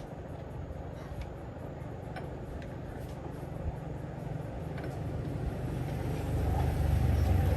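An engine running steadily with a low rumble, growing louder about six seconds in, with a few light clicks.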